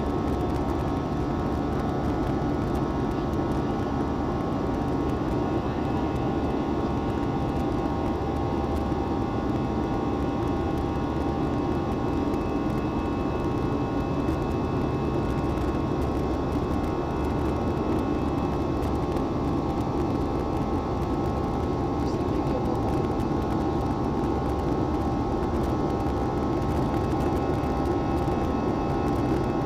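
Steady cabin noise of an Airbus A320-family jet airliner climbing after takeoff: an even engine and airflow rumble with a few steady whining tones above it, unchanging throughout.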